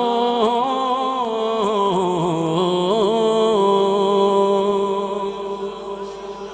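A man singing a naat unaccompanied, drawing out the final "Allah" in a long ornamented line with quick turns of pitch, then holding one steady note that fades away near the end.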